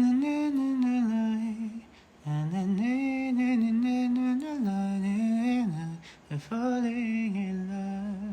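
A man humming a melody without words, in three phrases of long held notes with short gaps between them.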